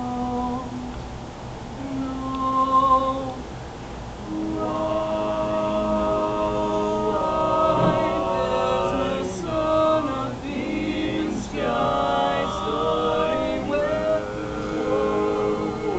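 Group of voices singing a wordless passage in sustained harmony; a lone voice holds two short notes, then several voices join in chords about four seconds in.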